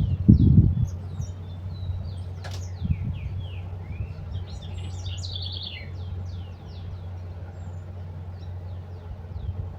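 Several small birds chirping in short, quick high notes, busiest in the middle. Loud low rumbling thumps come in the first second, over a steady low hum.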